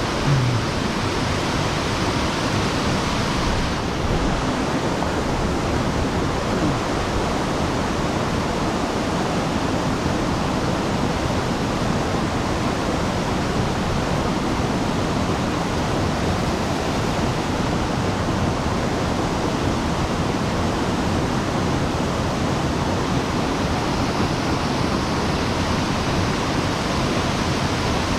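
Steady rushing of water spilling over a sabo (erosion-control) dam on a mountain stream. The high hiss dulls slightly about four seconds in.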